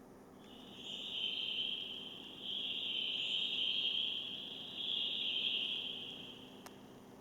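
An insect trilling in three long, buzzy phrases, each about two seconds, fading out near the end.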